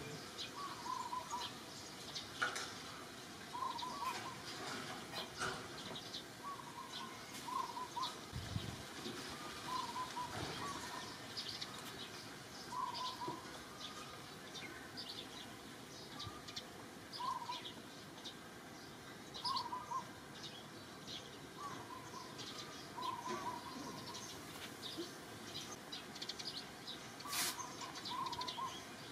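Birds calling: one bird repeats a short double note every couple of seconds, with quick high chirps and ticks scattered in between.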